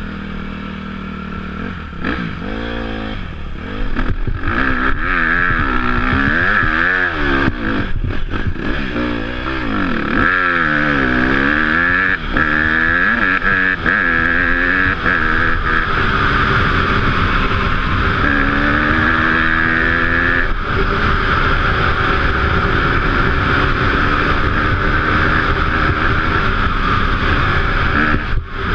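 Off-road motorbike engine revving up and down over and over as it is ridden, with a steady hiss over it and a few knocks early on. From about halfway the engine note holds steadier.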